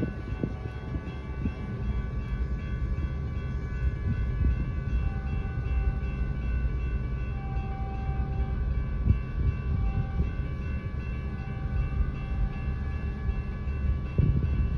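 Freight train cars rolling past a grade crossing: a steady low rumble with scattered clanks, and steady high tones running over it, heard from inside a car.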